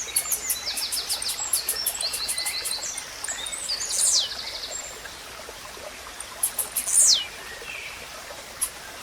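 Blue-black grassquit (tizil) giving its short, sharp song, a quick downward-sweeping note, twice about three seconds apart. Another bird's rapid high trill runs over the first three seconds, over a steady hiss of running water.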